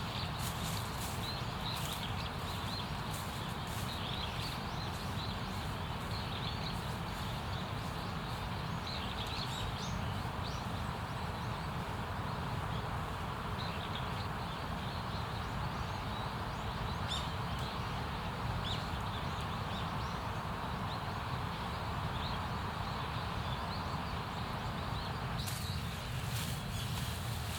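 Steady outdoor noise with scattered short, high chirps or ticks, and bursts of sharp clicks near the start and again near the end.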